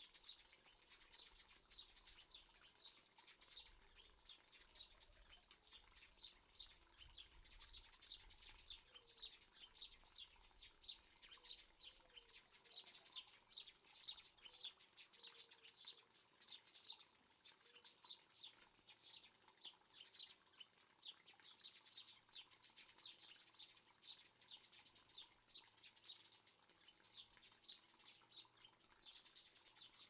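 Faint birdsong: small birds chirping and twittering, a steady run of quick, high chirps.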